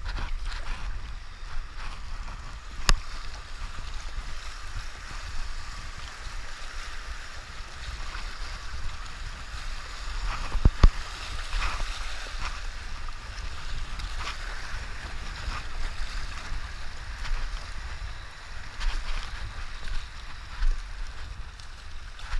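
River rapids rushing and splashing around a stand-up paddleboard, with wind buffeting the microphone as a low rumble. A few sharp knocks cut through, the loudest about halfway through.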